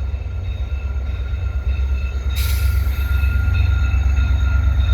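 Via Rail LRC passenger train passing on the rails: a deep steady rumble with thin, high wheel squeal over it. About two and a half seconds in, a rush of hissing noise comes in as the train comes by, and the sound grows louder.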